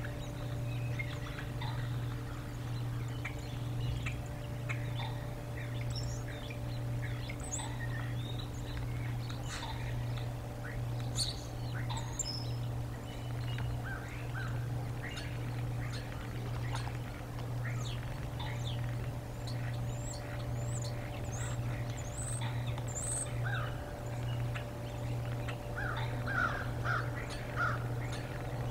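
Wild birds chirping and calling on and off, with short scattered calls throughout and a denser run of calls near the end, over a steady low hum.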